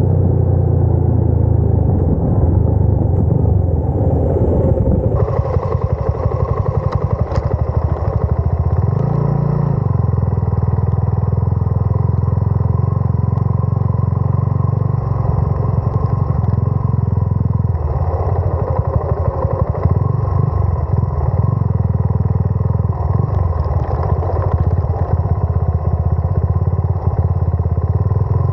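Suzuki Gixxer 250 single-cylinder engine running steadily while riding, with a brief change in engine note about nine seconds in.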